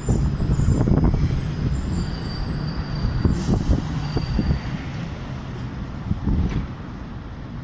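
A train running past on the rails: a low, noisy sound with irregular knocks from the wheels, fading steadily as it moves away.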